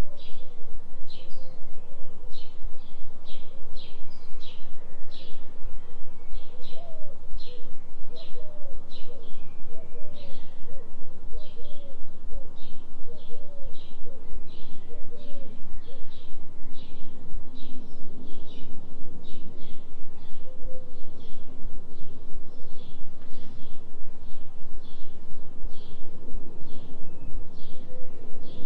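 A low, steady droning tone pulsing about three times a second, the delta-frequency binaural beat tone. Over it runs a forest bird soundscape: short high chirps repeat two or three times a second, and a series of short warbling calls comes in the first half.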